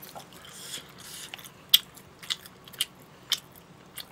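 Close-miked chewing of a mouthful of food, with sharp wet mouth clicks about twice a second.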